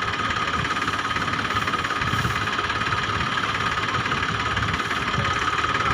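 Tractor diesel engine running steadily with an even, rapid knock.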